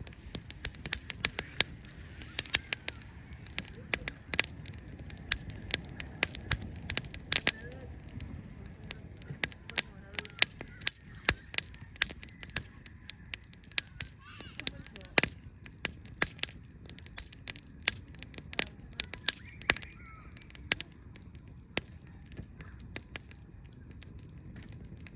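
Wood fire crackling, with frequent sharp irregular pops and snaps over a low steady rumble.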